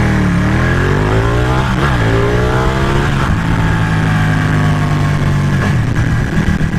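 Ducati 1199 Panigale's L-twin engine pulling hard, the revs climbing, dropping briefly at an upshift about two seconds in, then climbing again before settling to a steady pull, with constant wind rush on the helmet-mounted microphone.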